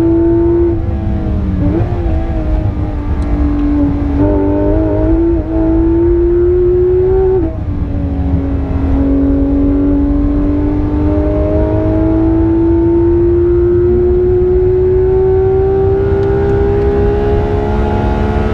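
Porsche 991.2 GT3 RS's naturally aspirated 4.0-litre flat-six heard from inside the cabin, pulling in gear. About seven and a half seconds in the pitch drops at a gear change, then climbs slowly and steadily, over a heavy low rumble.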